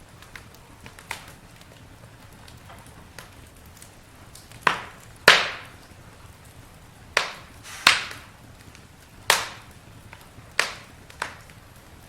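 Campfire wood burning with sharp cracks and pops: a few small ticks at first, then about seven loud cracks in the second half, over a faint steady hiss of the flames.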